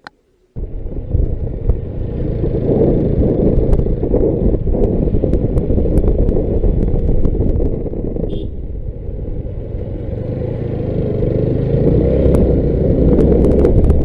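Motorcycle on the move: a steady, loud rumble of engine and rushing air that starts suddenly about half a second in.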